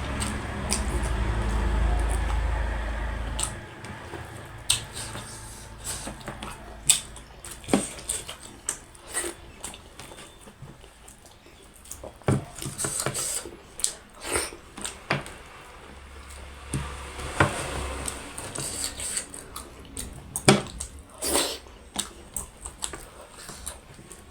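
Close-up mukbang eating sounds: wet chewing and squishing, with many short sharp clicks and taps of bites and of a plate or cutlery. A low rumble in the first few seconds cuts off suddenly.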